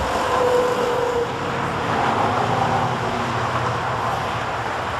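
Car engine running amid steady street traffic noise, with no tire squeal.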